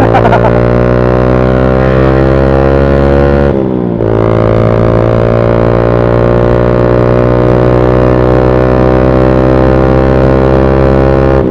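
Motorcycle engine running loud through a fully custom exhaust while riding, a steady low drone. Its pitch drops about three and a half seconds in, as at a gear change, then climbs slowly and drops again near the end.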